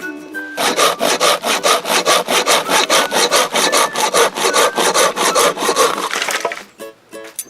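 Hand saw cutting through wood in quick, even back-and-forth strokes, about five or six a second. It starts about half a second in and stops near the end, over faint background music.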